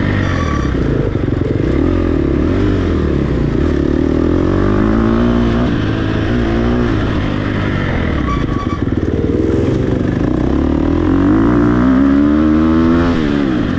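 Dirt bike engine revving up and down as the throttle is worked, climbing to its highest revs near the end before dropping off.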